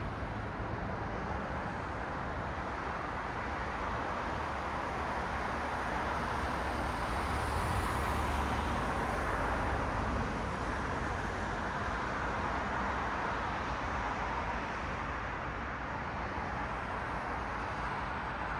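Road traffic noise: a steady rush of cars and their tyres on a city street, swelling as one passes closer about halfway through and easing off again.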